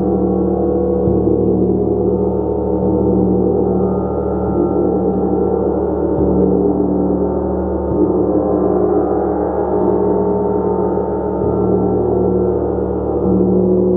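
A gong played continuously, struck again every one to two seconds, so that its many overlapping ringing tones build into a sustained, dense wash.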